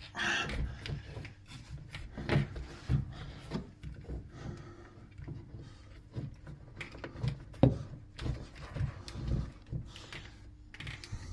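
Irregular knocks, clicks and rubbing from parts being handled and fitted while working on a shower pod, with two louder knocks about two and a half and seven and a half seconds in.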